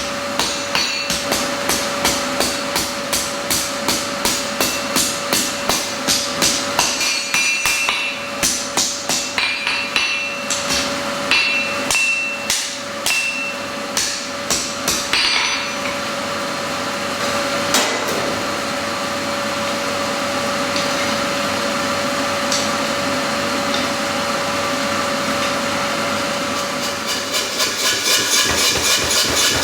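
Hammer blows on hot steel at an anvil, a steady run of about three strikes a second, some ringing. About halfway through the blows stop and a steady rushing noise with a hum carries on. A faster, regular pounding starts near the end.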